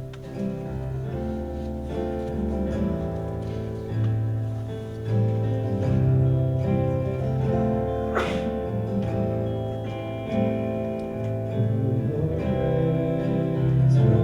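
Live praise band playing the instrumental introduction to a contemporary worship song: strummed guitar over sustained chords with a strong low end, before the singing comes in.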